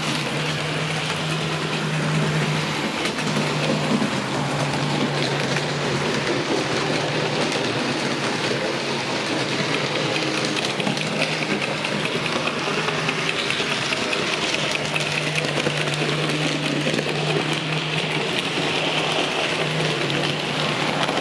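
Model train locomotives running continuously on an analogue layout: small electric motors whirring, with wheels running over the rail joints, and a low hum that fades out and comes back a few times.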